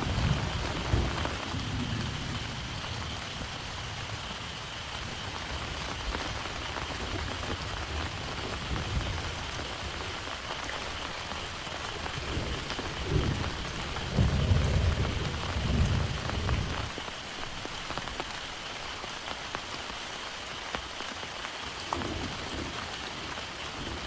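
Heavy rain falling steadily, with thunder rumbling low in the background: one rumble dying away in the first couple of seconds and another swelling about 13 seconds in and fading out a few seconds later.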